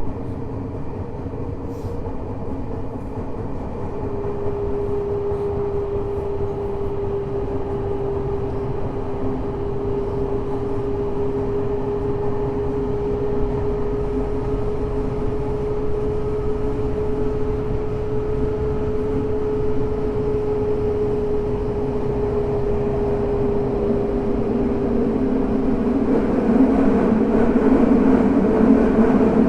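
Tokyo Metro 05 series subway train with Mitsubishi IGBT traction inverters running through a tunnel, heard from inside the car: steady wheel and track rumble with a level hum. The noise grows gradually louder, turning louder and rougher in the last few seconds.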